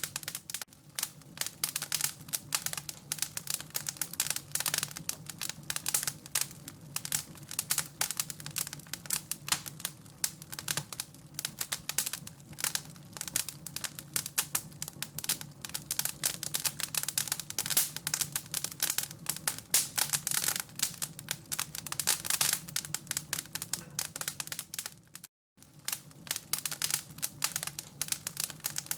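Fire crackling in a fireplace, a continuous run of irregular small snaps and pops. The sound cuts out completely for a moment about 25 seconds in, then the crackling resumes.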